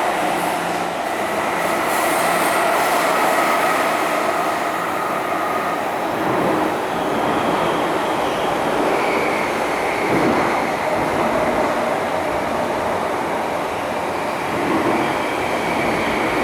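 MTR M-Train metro train running, heard from on board: a steady rumble of wheels on rail with several steady whining tones over it that shift slightly in pitch about halfway through.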